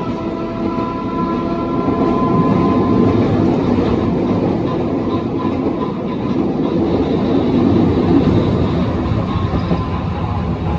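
Manyosen streetcar running along its track, heard from inside the car: a steady rumble of wheels on rail with some rail-joint clatter. A thin motor whine fades out about three seconds in.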